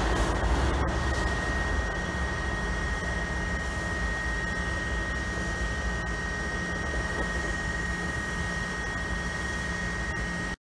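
A passenger train hauled by a GE P32AC-DM diesel locomotive going away down the track: a steady engine drone and low rumble that fade over the first couple of seconds and then hold, with a thin steady high whine throughout. The sound cuts off suddenly at the very end.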